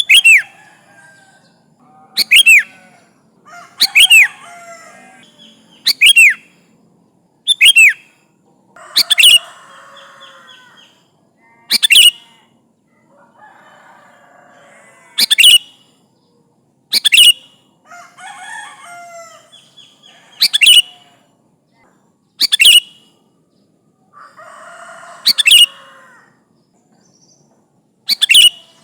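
Sooty-headed bulbul calling: loud, sharp, very short calls repeated about every two seconds, with softer chattering between some of them.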